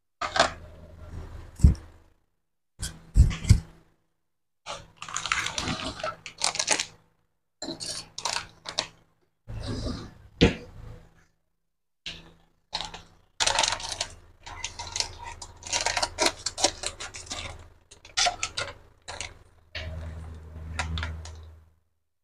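Stir-fry of quail eggs, meatballs and vegetables sizzling and crackling in a frying pan on the stove. It comes in stretches of one to a few seconds broken by short silent gaps.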